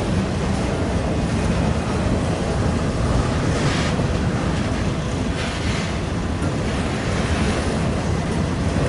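Train passing close by: a steady, loud rumble and rush of noise, with wind on the microphone.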